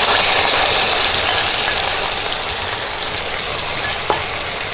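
Marinated frog pieces and their sauce sizzling in a hot wok with julienned ginger and chili, a steady frying hiss that eases slightly over the seconds, with a couple of light clicks.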